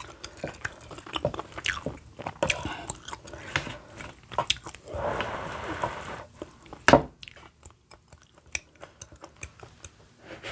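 Close-miked wet chewing of a mouthful of kimchi stew, with many small mouth clicks. About five seconds in, a wooden spoon scoops through a bowl of rice, followed by one sharp knock, the loudest sound here.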